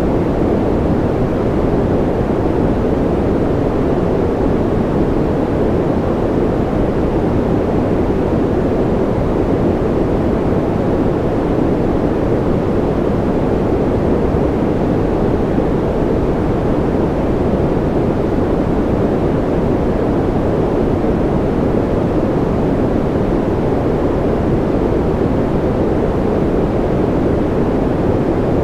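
Continuous generated sleep noise, steady and unchanging, a dull rushing hiss weighted toward the low and middle range with little treble.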